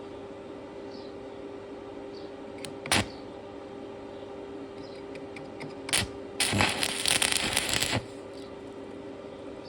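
Stick (shielded metal arc) welding: an electrode arc crackles and spits for about a second and a half, like a short tack weld, after two sharp clicks. A steady electrical hum runs underneath.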